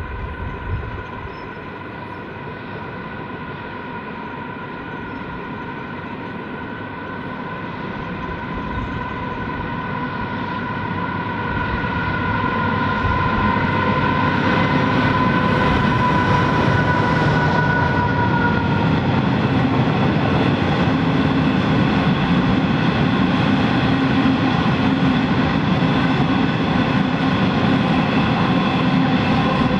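A coal train approaching and passing: the diesel-electric locomotives grow louder with a high, steady whine that drops in pitch as they go by about two-thirds of the way through, followed by the steady rumble of the coal hopper wagons rolling past.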